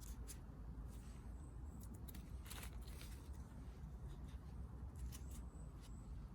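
Scattered short crackles and snaps of leaf litter and twigs being stepped on or handled on the forest floor, over a steady low rumble on the microphone. A faint thin high tone sounds twice, briefly.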